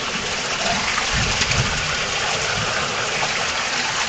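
Steady rush of an underground waterfall pouring through a cave.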